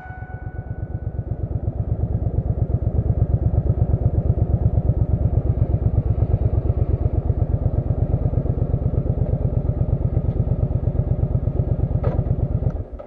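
Motorcycle engine idling with a steady, even pulse, then shut off near the end.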